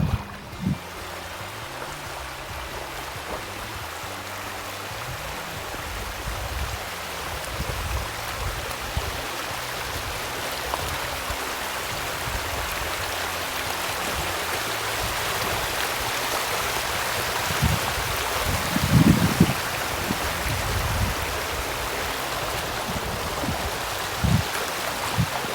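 Steady rushing of a river swollen by typhoon rain, in flood with muddy water, growing slightly louder over time. A few low thumps come about two-thirds of the way in and near the end.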